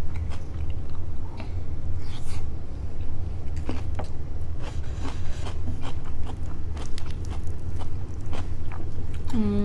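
Close-up chewing and biting of crispy fried salmon: many sharp, crackly crunches over a steady low hum. Near the end comes a short, falling, whine-like voiced sound.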